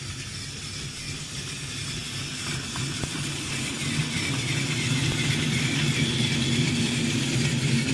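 Battery-powered TrackMaster toy engine (2012 Thomas with the flat drive unit) running along plastic track: a steady electric motor and gear whir, growing gradually louder.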